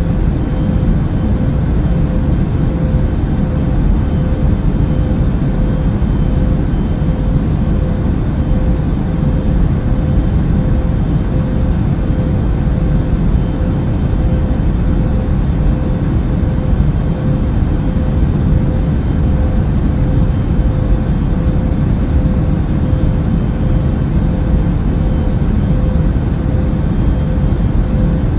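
Airbus A380 in flight: a steady, deep rumble of engine and airflow noise with a faint steady hum running through it.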